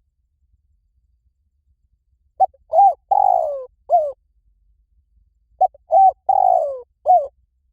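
Spotted dove cooing: two matching phrases about three seconds apart, each of four notes, the third long and falling in pitch.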